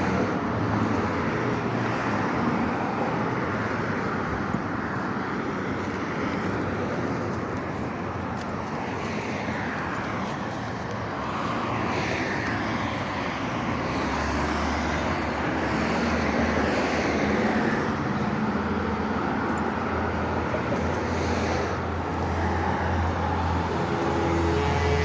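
Street traffic noise: passing cars with a steady murmur of the road. A steady low hum sets in about halfway through.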